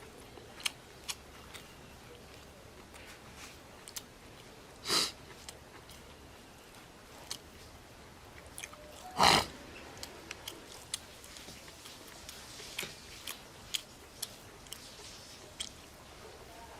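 A person chewing and biting food, with many small mouth clicks and two louder short sounds about five and nine seconds in.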